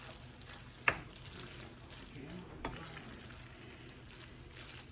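Linguine in cream sauce faintly sizzling in a skillet still on the heat, with a utensil clicking sharply against the pan twice, about a second in and again just past the middle.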